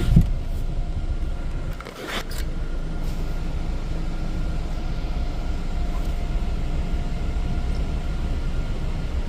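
Proto-Vest car wash dryer blowers running, a steady rushing blast of air with a faint motor whine. There is a thump just after the start and a short drop about two seconds in before the blast steadies.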